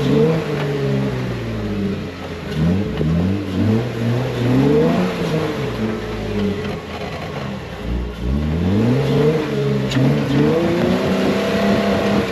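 Off-road 4x4's engine revving hard in repeated bursts, its pitch climbing and dropping several times as the driver works the throttle.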